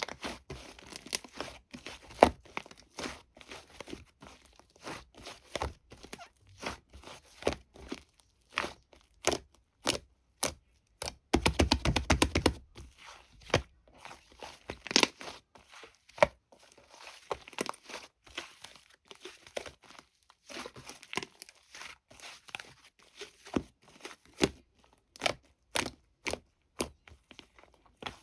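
Irregular clicks, taps and crinkling handling noises, with a quick run of rapid taps about eleven seconds in.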